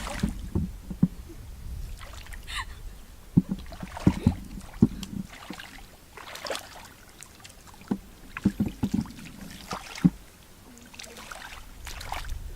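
Water splashing and sloshing, with irregular sharp knocks and splashes over a low rumble.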